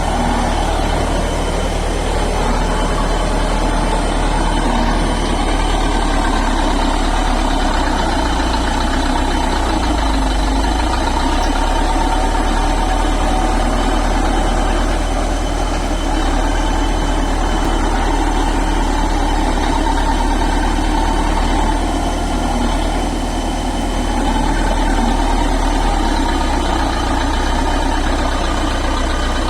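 Bulldozer's diesel engine running steadily, a deep, even rumble.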